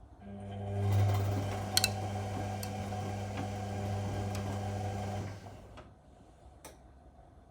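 Whirlpool washing machine's motor turning the drum for one wash tumble of about five seconds: a steady hum that swells in the first second, then winds down and stops. A couple of sharp clicks come near two seconds in, and one more after the drum has stopped.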